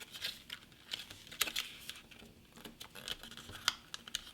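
A sheet of printer paper being folded and creased by hand in a reverse fold: a run of crisp rustles and sharp creasing clicks.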